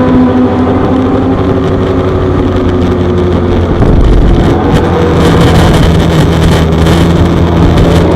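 Suzuki GSX-R600's inline-four engine running hard on track, its pitch falling over the first few seconds, then holding a steadier note through the second half.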